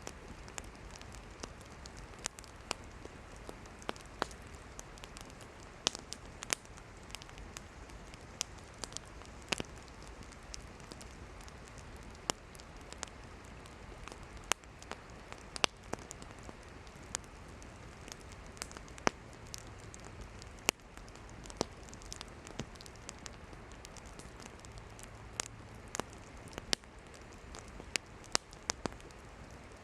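Wood campfire burning, with irregular sharp pops and crackles of firewood over a steady low hiss of flames.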